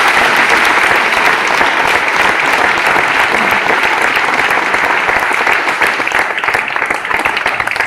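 Audience applauding steadily, a dense patter of many hands clapping that thins a little near the end.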